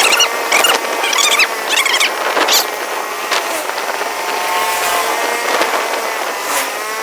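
Vehicle noise: a steady engine-like hum with an even whine, and a few short high-pitched chirps and clicks over the first couple of seconds.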